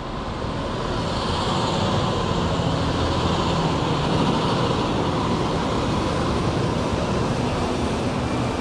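Loud rushing noise of a large passing vehicle, swelling over the first couple of seconds and then holding steady with a low hum underneath.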